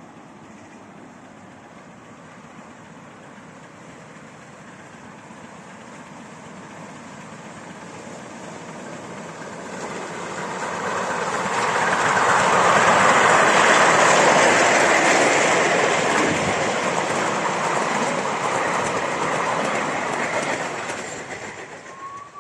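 Steam-hauled train passing close by, its wheels rumbling on the rails. The sound builds from about a third of the way in, is loudest around the middle, and fades away near the end.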